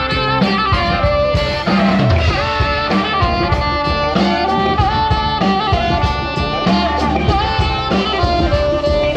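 Brass band playing: saxophone and brass horns holding melodic notes over a drum kit beat.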